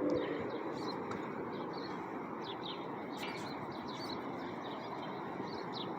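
Steady wind rushing on the microphone, with small birds chirping in short calls scattered through it.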